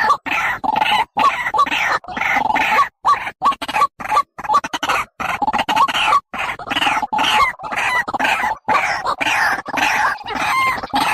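A bird's short calls repeated over and over in quick succession, broken by brief gaps.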